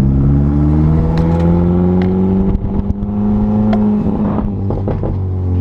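Straight-piped (muffler-deleted) R53 Mini Cooper S supercharged 1.6-litre four-cylinder running under way, its pitch climbing slowly as it pulls. It stumbles briefly about halfway through, then the pitch drops near the end as it comes off the throttle.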